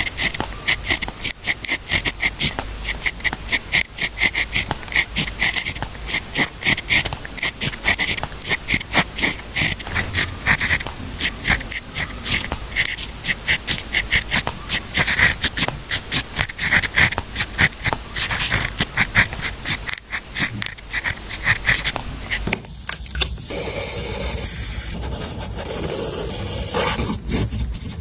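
Writing on paper: a fast run of short scratchy strokes, changing to a duller, softer sound about 22 seconds in.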